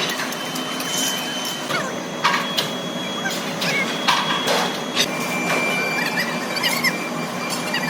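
Workshop metal-machining noise. A steady thin whine jumps in pitch a few times, over a running hum, with scraping strokes and sharp metallic clicks scattered through.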